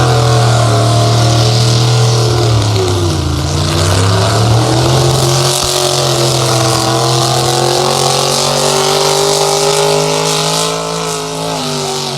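Loud engine of a truck- or tractor-pull vehicle running hard, its pitch dipping about three seconds in and climbing back, then easing off a little near the end.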